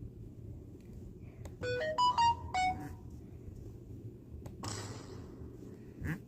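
A short electronic jingle of five quick beeping notes, rising then falling, about two seconds in, like a ringtone or alert tone, followed a little later by a brief burst of hiss.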